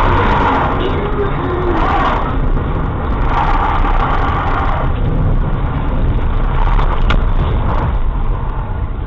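Loud motor vehicle noise: a dense rumbling traffic sound that swells and eases several times.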